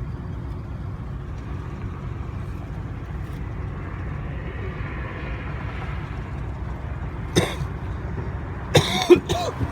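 Steady low rumble of a truck driving on the road, heard from the back of the truck. Near the end a person coughs hard, once and then several times in a row, with a little throat clearing.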